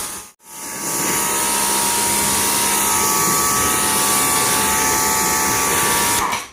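Electric brushless pressure washer spraying a car through a 40-degree nozzle: a loud, steady hiss of the water jet over the whine of the motor and pump. The spray cuts out briefly just after the start, comes back, and stops shortly before the end.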